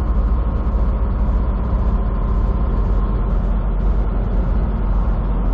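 Steady drone of a semi truck's engine and road rumble heard inside the cab while driving at highway speed.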